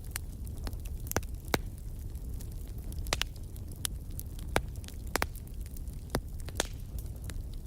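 Wood fire burning in a fireplace: sharp, irregular crackles and pops, roughly one or two a second, over a steady low rumble of the flames.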